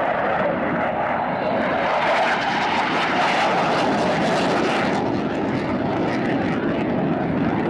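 F/A-18 Hornet jet fighter's twin turbofan engines, a loud, steady rushing jet noise from the aircraft in flight, strongest about two to five seconds in and easing a little after.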